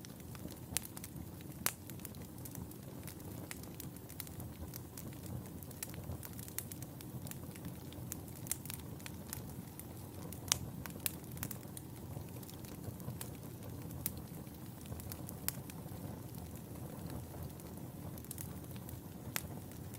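Wood fire burning in a fireplace: a steady low rumble of flames with frequent sharp, irregular crackles and pops, a few of them louder.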